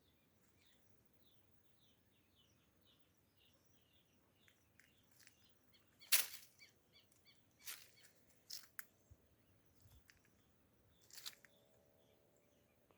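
Faint bird calling: a run of short high chirps, about four a second, through the first half. Then several sharp clicks or snaps, the loudest about six seconds in.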